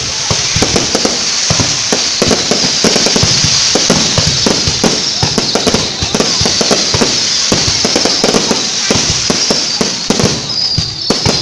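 A fireworks display going off: a dense, continuous run of bangs and crackling, with a few short falling whistles near the end.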